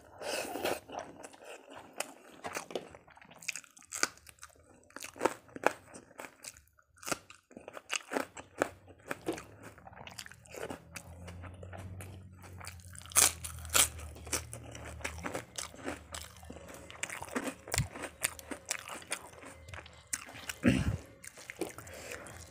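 Close-up eating sounds: wet chewing of rice and dal eaten by hand, broken by sharp crunches of fried papad being bitten and chewed, the loudest crunches about halfway through.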